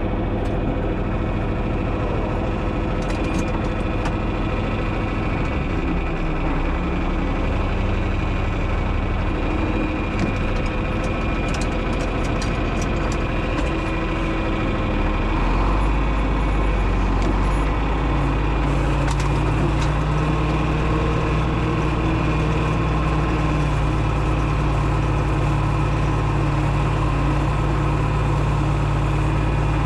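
John Deere 6030's six-cylinder diesel running steadily under load while pulling a moldboard plow. About halfway through it gets a little louder and deeper.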